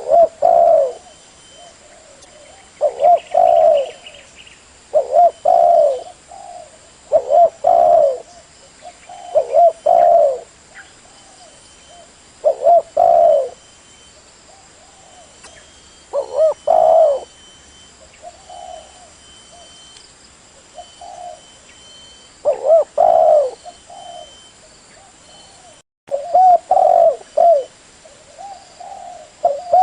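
Spotted dove cooing: short, low coo phrases repeated every two to three seconds, used as a call to lure doves in.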